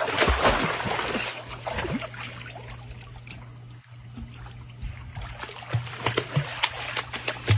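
Water splashing and trickling, followed near the end by a quick run of short knocks and taps.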